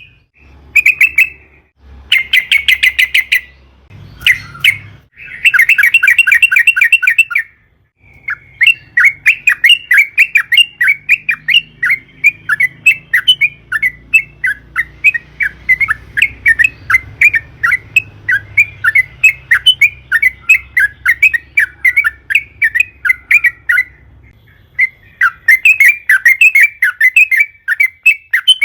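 Yellow-vented bulbul (trucukan) singing rapid, bubbling chattering notes: a few short bursts at first, then a long unbroken run of quick notes, a brief pause, and the chatter starting again near the end.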